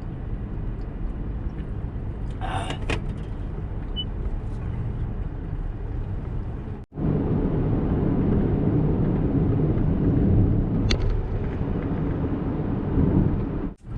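Steady road and engine rumble heard inside a moving car's cabin, with a short sharp noise about three seconds in. The sound cuts out briefly about seven seconds in, and the rumble is louder after it.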